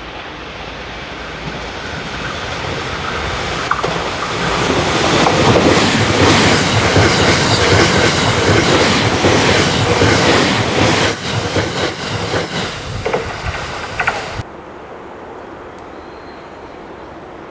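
A Thunderbird limited-express electric train approaching and passing close by at speed: a rising rush of running noise that peaks as the cars go by, then several sharp wheel clacks over rail joints as the last cars pass. About three-quarters of the way in it cuts off suddenly to a much quieter steady background.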